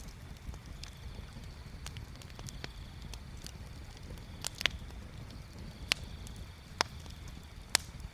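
Wood bonfire crackling over a steady low rumble, with sharp pops at irregular intervals, most of them in the second half.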